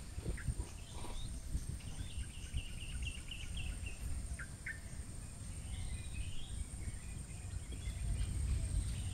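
Small birds chirping in quick high runs, over a steady thin high insect drone and a constant low rumble.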